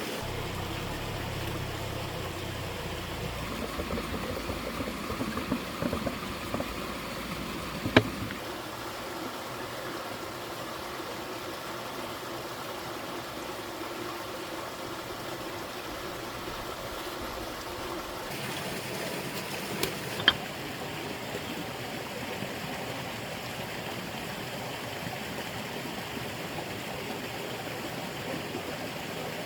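Steady rushing of flowing water, with two sharp knocks, one about eight seconds in and one about twenty seconds in.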